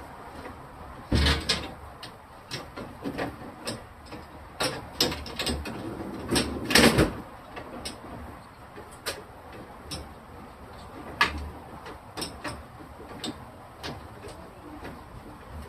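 Scattered knocks, clicks and clatter of refrigerator shelves, bins and food containers being handled and set in place, loudest about a second in and again around seven seconds.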